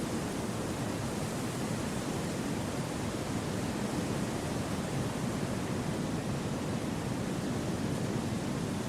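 Wind blowing through forest trees as a steady, even rushing with no gusts, breaks or other sounds.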